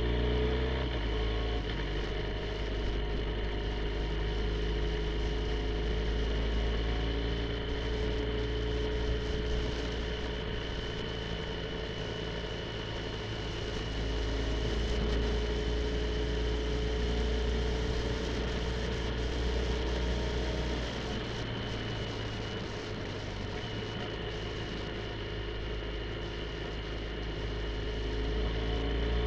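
BMW R1250 GSA's boxer twin engine running at road speed, its note rising and falling slightly as the throttle changes, with a steady low rumble of wind and road noise underneath.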